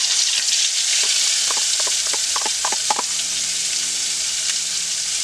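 Food just tipped into hot cooking oil, sizzling loudly and steadily, with a few sharp pops of spitting oil between about one and a half and three seconds in.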